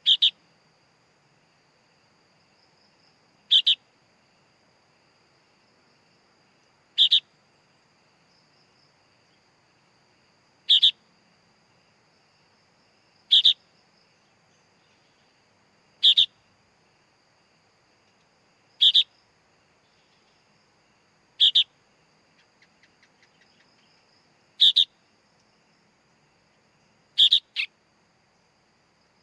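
Sooty-headed bulbul (kutilang) chick calling: a short, shrill double chirp repeated about every three seconds, ten times.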